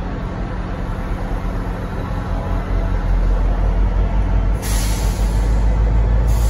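Train locomotive idling at a station with a deep rumble that grows louder about halfway through. Two bursts of hissing air from its air brakes cut in, the first about four and a half seconds in and the second near the end.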